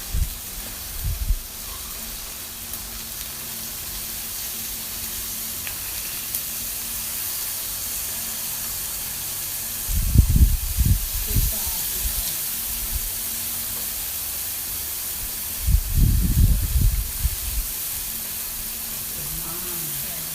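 Pork belly sizzling on a grill: a steady hiss, broken twice, about ten and sixteen seconds in, by a second or two of low thumping bumps.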